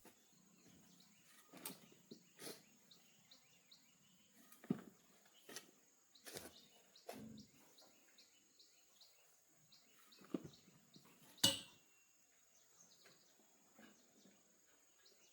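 Faint, irregular knocks and taps, about eight of them, the sharpest near the end, over small bird chirps and a steady high insect drone.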